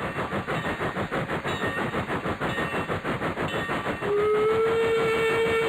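Train running with a rapid, even chugging rhythm; about four seconds in a single steady whistle blast starts and holds.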